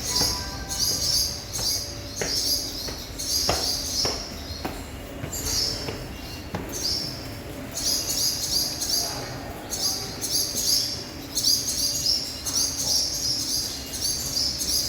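Barn swallows twittering from a crowded nesting colony: fast, high chirping from several birds at once, coming in runs of a second or two with short breaks.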